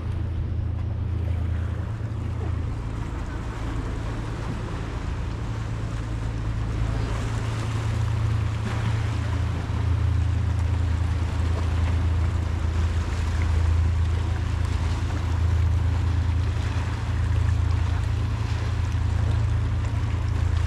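Wind buffeting the microphone as a steady low rumble, over an even wash of outdoor waterfront noise that grows a little louder partway through.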